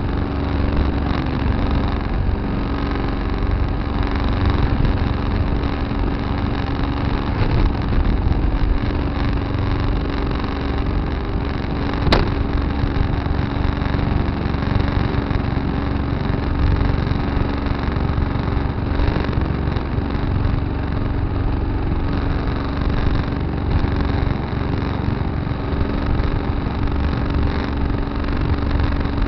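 Tractor engine running steadily, heard from a dash camera in the cab, with a low rumble and a steady hum. A single sharp click sounds about twelve seconds in.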